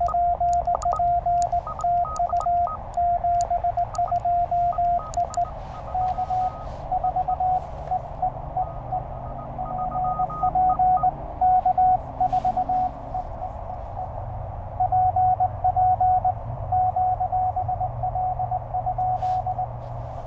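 Morse code from a Penntek TR-35 transceiver. For the first five seconds or so it is the clean keyed sidetone of the operator's own sending, with clicks from the paddles. After that it is another station's Morse code, received in steady band noise.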